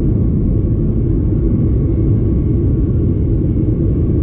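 Steady cabin drone inside a Boeing 737 MAX 8: the low rumble of its CFM LEAP-1B turbofan engines and airflow, with a faint steady high tone above it.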